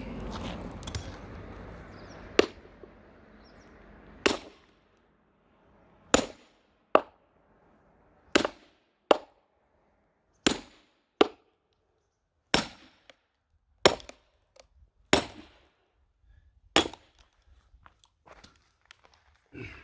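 Axe and hammer blows splitting a large firewood log: about a dozen sharp strikes one to two seconds apart, several coming in quick pairs, after a short rustle at the start.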